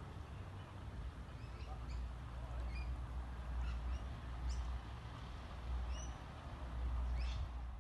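Scattered short, high bird chirps and calls, over an uneven low rumble on the microphone.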